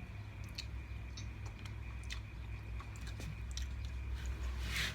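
Faint, scattered clicks and wet squishing of someone eating seafood boil and picking at crab and shrimp shells by hand, over a steady low hum.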